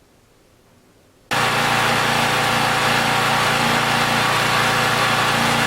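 Faint hiss, then about a second in a sudden cut to a portable generator's small engine running steadily, powering a sump pump during a power outage.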